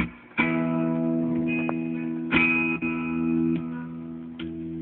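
Guitar chords strummed and left to ring, a fresh strum every second and a half to two seconds, with no other instrument prominent.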